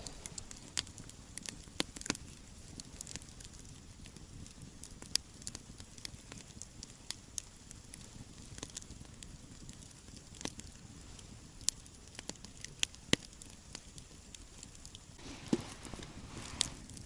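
Wood campfire crackling, with scattered sharp pops at irregular intervals over a low hiss. Near the end there is a short scuffing noise.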